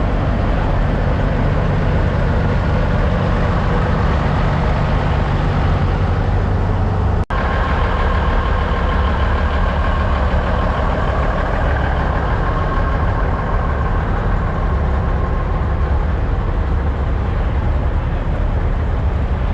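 Semi-truck diesel engine idling, a steady low rumble; the sound drops out for an instant about seven seconds in.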